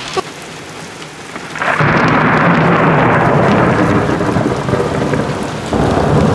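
Thunderstorm: steady rain, then a loud roll of thunder that breaks in suddenly about two seconds in and keeps rumbling under the rain.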